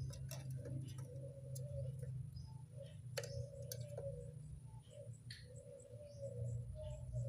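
A local puter dove cooing in a run of low, drawn-out coos, the longest starting about five seconds in. Sharp clicks and short high chirps from small birds sound over a steady low hum.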